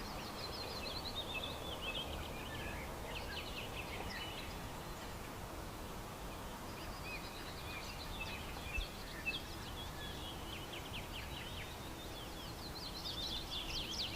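Birds chirping in runs of quick chirps that fall in pitch, over a steady hiss of outdoor background noise.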